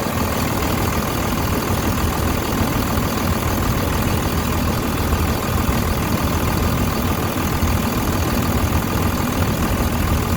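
A 5.9-litre Cummins 24-valve turbo diesel in a 2001 Dodge Ram 2500, idling steadily. The engine shows no blow-by, a sign that it is in healthy condition.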